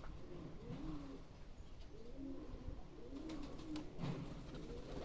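Domestic pigeons cooing: a series of low, rolling coos one after another.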